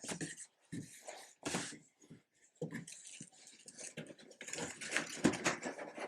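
Cardboard box and packing being handled, with irregular rustling and scraping as a box fan is eased out of its original carton. The scraping grows busier near the end.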